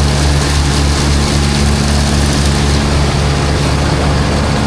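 Tractor engine driving a PTO silage blower, running steadily: a low engine drone under a loud, even rushing noise of the blower.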